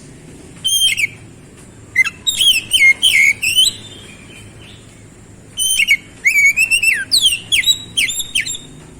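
Oriental magpie-robin (kacer) singing in full voice. It gives three bursts of quick, varied whistled notes that sweep up and down: a short phrase about a second in, then two longer phrases with a pause between them.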